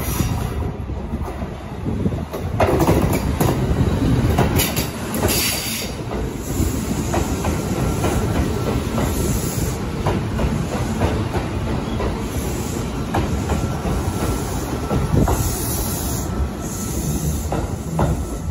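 Kintetsu 12200-series 'Snack Car' limited-express electric train running past on curved track, its wheels clacking over rail joints, with several brief high wheel squeals.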